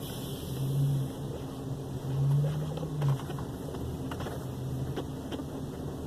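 Garbage truck engine running steadily and revving up twice for about a second each, as the truck works to empty a dumpster, followed by a few light knocks.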